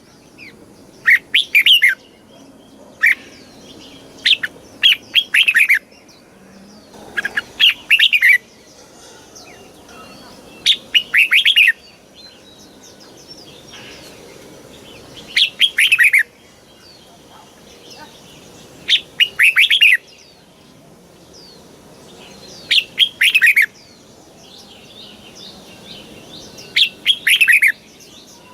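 Red-whiskered bulbul singing: short, loud warbling phrases repeated every few seconds, about nine in all, with fainter chirps between them.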